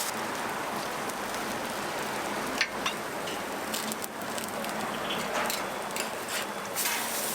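Sorghum rice cakes (susu bukkumi) frying in oil on a flat griddle: a steady sizzle with scattered crackles, a sharper pop about two and a half seconds in.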